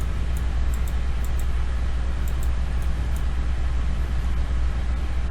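Steady low hum with an even hiss, the constant background noise of the recording setup. Faint short high ticks come and go over it.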